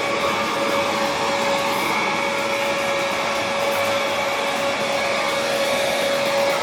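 ALACRIS cordless handheld vacuum cleaner running steadily, its 150W motor giving a constant whine over the rush of air.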